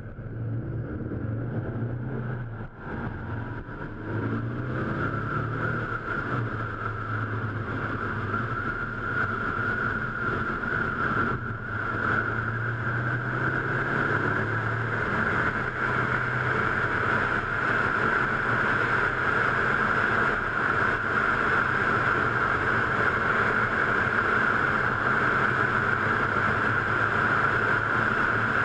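Car engine accelerating onto a race track, pulling through the gears, with brief drops in sound at the shifts about three and eleven seconds in. Wind and road noise build steadily as the speed rises.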